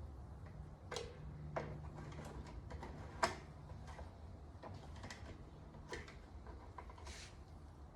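Scattered light clicks and taps of small objects and tools being handled, the loudest about three seconds in, with a brief hiss near the end, over a steady low hum.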